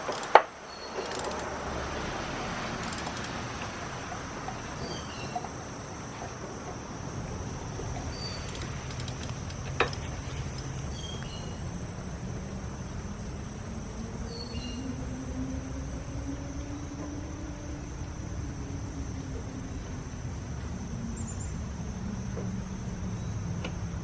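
Two sharp knocks, the louder one just after the start and another about ten seconds in, over a steady low hum and scattered faint insect chirps. Through the second half a low tone slowly rises and falls in pitch.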